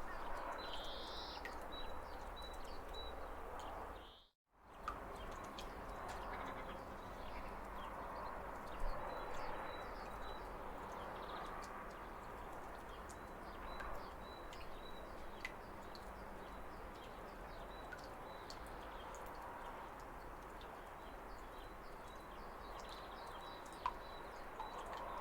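Steady rushing of a waterfall, with birds chirping over it in short, high, repeated notes. About four seconds in, the whole sound fades out to silence for a moment and comes back.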